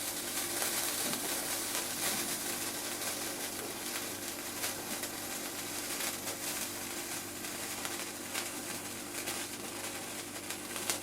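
Steady crackling hiss of something burning, with small pops and ticks scattered throughout.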